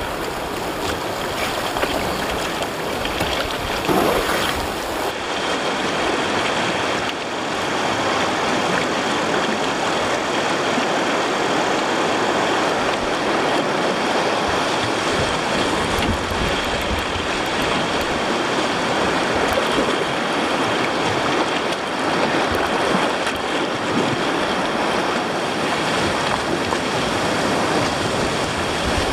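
Steady, loud rush of whitewater as a kayak runs a small river rapid.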